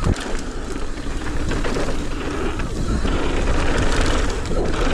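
Mountain bike rolling over a rough dirt trail: a steady rumble with scattered knocks and rattles from the bike.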